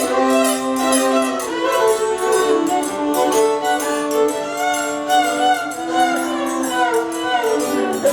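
Live Cajun string-band music led by fiddle, playing a slow melody in long held notes that waver slightly in pitch.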